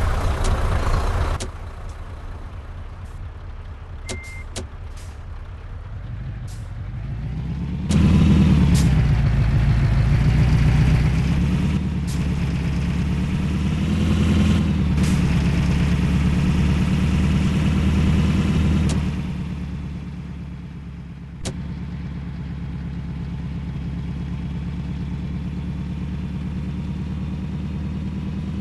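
Heavy load truck's engine running. It picks up sharply about eight seconds in, rising and falling in pitch under load, then drops back to a steadier, lower run about twenty seconds in. There is a short high beep near four seconds and a few sharp clicks.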